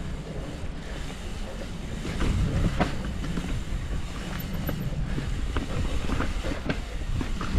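Transition TransAM hardtail mountain bike rolling down a rough dirt trail: a steady rumble of tyres over dirt and roots, with irregular clacks and rattles from the frame and chain. The rumble gets a little louder about two seconds in.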